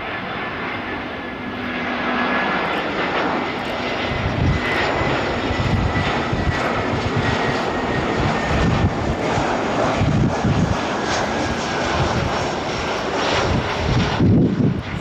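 Airbus A320's twin CFM56-5B jet engines at takeoff thrust: a loud, steady engine noise with a faint high whine. Low, uneven rumbling grows after a few seconds, and the higher part of the sound falls away near the end as the aircraft moves off.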